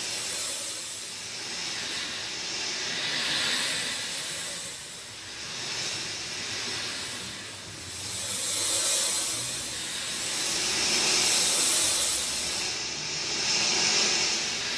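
Rain falling, a dense, even hiss that swells and eases every few seconds.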